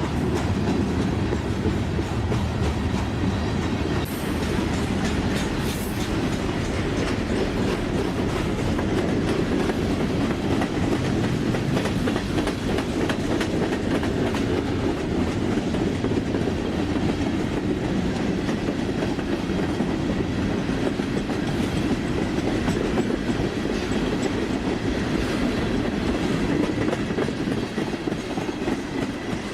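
A train rolling past, its cars' wheels clattering steadily over the rail joints.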